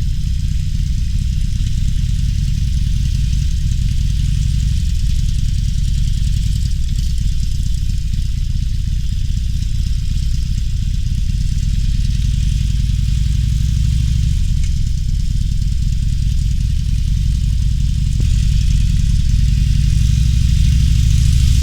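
Harley-Davidson Sportster Roadster's 1200 cc V-twin engine running steadily while riding, with a faint hiss of wind and road noise over it. It grows a little louder near the end.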